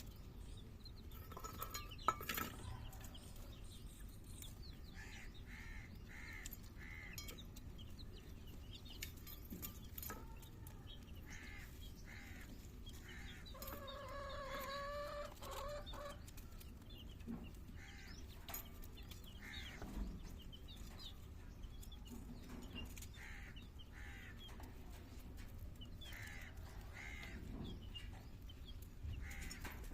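Backyard chickens clucking in short scattered calls, with a rooster crowing once for about two and a half seconds near the middle. A single sharp knock sounds about two seconds in.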